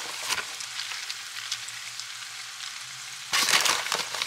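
Hash browns, chorizo and eggs sizzling steadily in a frying pan. Near the end comes a louder rustle as shredded cheese is shaken from its plastic bag onto the food.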